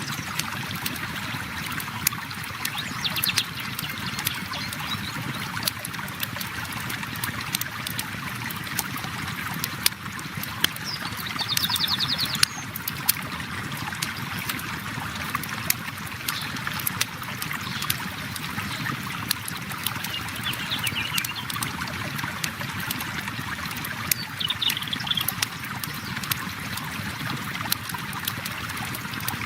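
Campfire crackling with frequent sharp pops over the steady rush of a flowing river. A few brief high chirps come and go.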